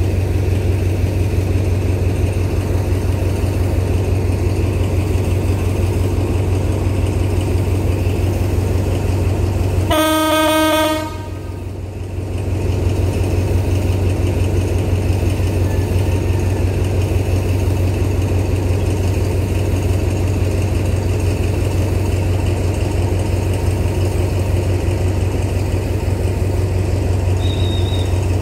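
Diesel train idling with a steady low rumble. About ten seconds in, a train horn sounds once for about a second.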